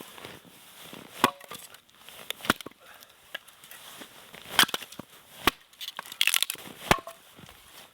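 Firewood being split with sharp, irregular chopping strikes, about five or six in all. A couple of the blows ring briefly, and there is a splintering crackle around two-thirds of the way through.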